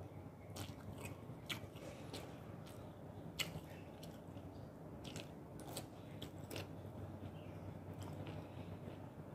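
A person chewing and biting food close to the microphone, with irregular crisp crunchy clicks, over a faint steady low hum.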